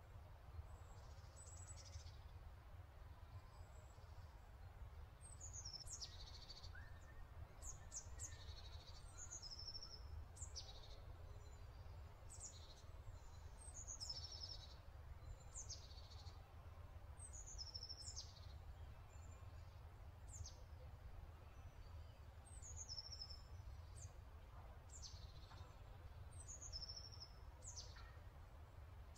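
Faint birdsong: short high chirps, each falling in pitch, repeated every second or two, over a low steady hum.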